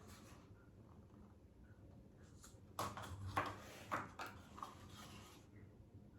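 Faint handling noises of painting supplies: a cluster of light clicks and rustles about three seconds in, dying away near the end.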